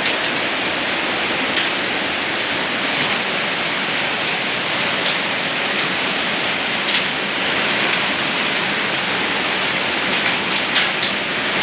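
Heavy hail shower with rain pouring down: a dense, steady rush, with a few sharp ticks now and then.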